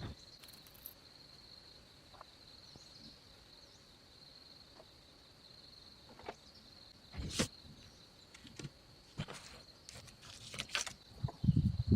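Steady high-pitched insect drone, like crickets or cicadas, with a few sharp knocks scattered through it: a loud one about seven seconds in, and a low thud with more knocks near the end.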